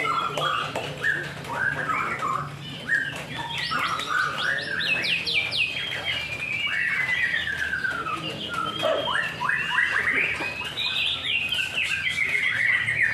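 White-rumped shama (murai batu) song: a continuous run of varied whistled phrases, rising and falling notes and fast trills.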